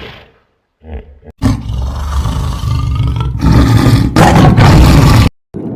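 Kangaroo vocalising: after a brief short sound about a second in, a loud, harsh, rasping call runs for about four seconds, grows louder toward the end and cuts off suddenly.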